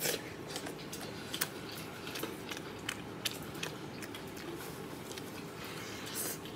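A person biting and chewing stewed meat off the bone, with irregular short smacking and clicking mouth sounds.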